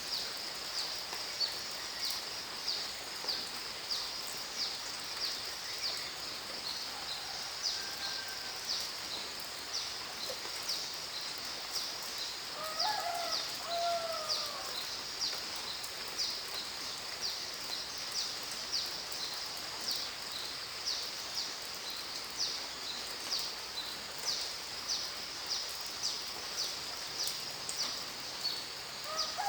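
Nature ambience: insects chirping high and steady, pulsing about twice a second, over a soft hiss, with a bird calling a few times near the middle and again at the end.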